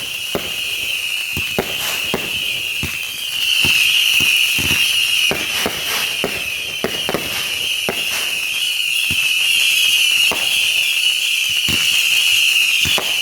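Consumer fireworks going off in rapid succession: many sharp bangs and pops over a continuous high-pitched whistling tone, growing louder about three seconds in.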